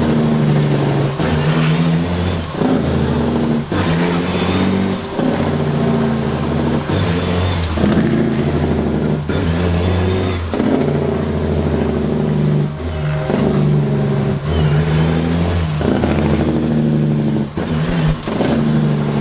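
Semi-truck engines running and revving, a steady deep drone that breaks off briefly every second or so.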